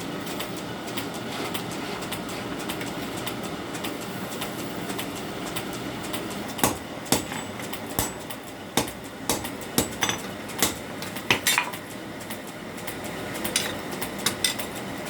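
Blacksmith's hammer striking steel on an anvil while forging a sickle: a run of sharp metallic clinks, a little under one a second, starting about halfway through, then a quick few more near the end. A steady rumbling noise runs underneath.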